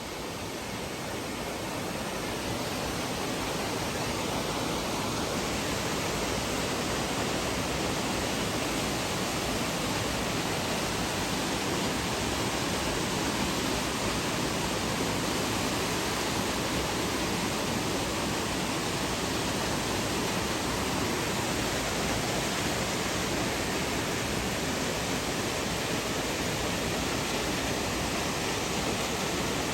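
Waterfall: water falling and splashing in a steady, unbroken rush, growing louder over the first few seconds and then holding level.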